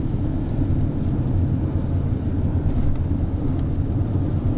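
Steady low rumble of a car's engine and road noise, heard inside the cabin with the windows closed.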